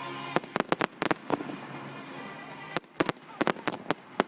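Display fireworks going off in quick runs of sharp bangs and cracks, a cluster in the first second or so and another in the last second and a half, with a quieter gap between.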